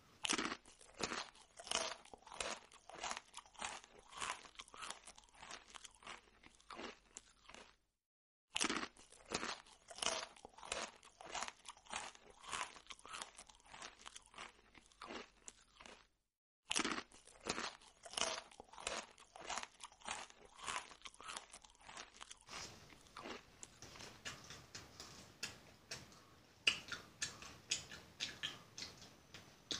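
A person chewing food close to the microphone, with crunching bites at about two a second. The sound drops out to silence twice for a moment.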